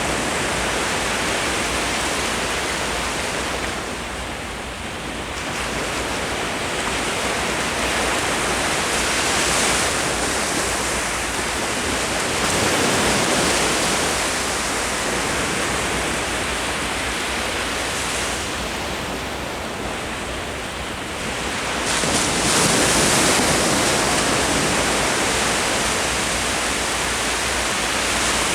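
Ocean surf washing continuously onto the shore, swelling and ebbing every few seconds, with a louder wave surging in about two-thirds of the way through.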